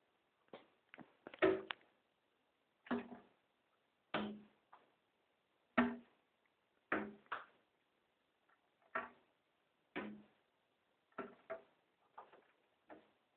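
A bird striking a window pane again and again: sharp knocks on the glass, each with a short ring, coming irregularly about once a second, some louder and some faint.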